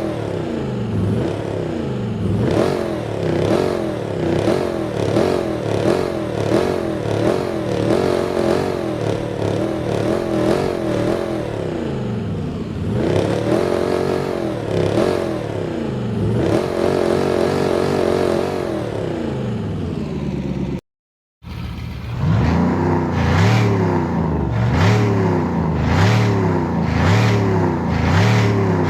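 Supercharged Dodge V8 revved over and over, its pitch rising and falling with each rev and the supercharger whining. It cuts out briefly about two-thirds of the way through, then a second car's quicker revs follow.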